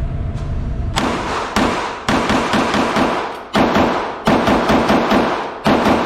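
9mm pistol fired rapidly: two shots, then quick strings of shots about four to five a second, separated by brief pauses.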